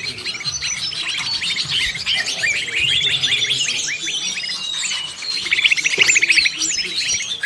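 A dense chorus of songbirds calling over one another, including green leafbird (cucak ijo) calls, with quick chirps, sweeping whistles and fast rattling trills. It is a bird-lure recording of many birds calling together. A fast run of repeated notes comes in toward the end.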